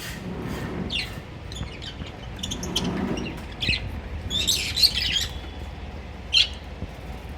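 Lovebirds chirping and squawking in short, sharp, high calls, with a busier flurry of calls about four to five seconds in and one loud call near the end.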